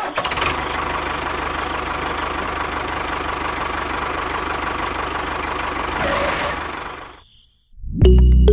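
Small DC hobby motor running steadily with a fast, even rattle and a whine, then winding down and stopping about seven seconds in.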